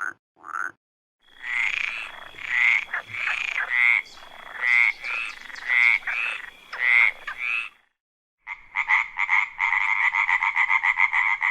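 Frogs croaking: a run of repeated croaks for about six seconds, then a short pause, then a fast pulsing trill.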